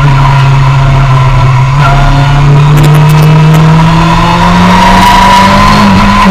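Suzuki sport bike engine pulling steadily in second gear on track, its note rising slowly as it accelerates and easing off near the end, with wind rush over the bike.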